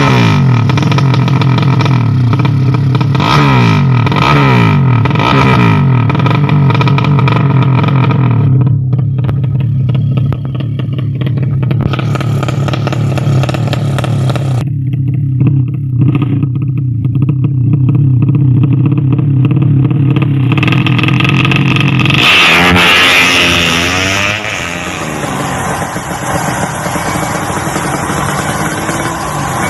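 Drag-racing motorcycle engines running loud: one is blipped up and down again and again in the first several seconds, then held at a steady speed. About 22 seconds in the sound cuts to another engine with a short burst of noise, then a wavering, uneven running.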